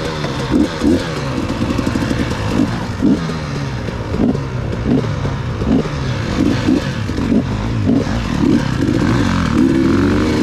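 Enduro dirt bike engine revving up and down over and over as the rider works the throttle off-road, with some clattering from the bike.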